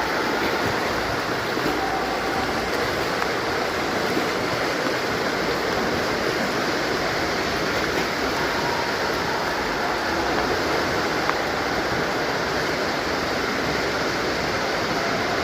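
Steady rushing and splashing water noise of a swimming pool.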